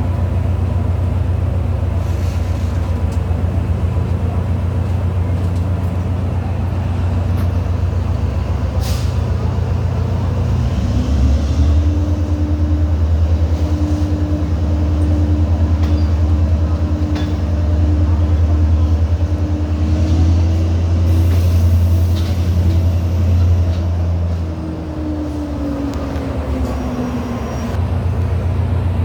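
Class S13 diesel multiple unit's engine running with a deep steady hum. About ten seconds in it revs up, a rising tone that holds for over ten seconds, then eases off near the end: power being applied as the train pulls out.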